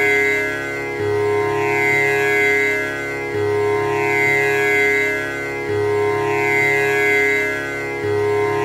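Tanpura drone: its strings are plucked in an unbroken repeating cycle, a little over two seconds per round, each round starting with a low note, over a steady sustained hum of overtones.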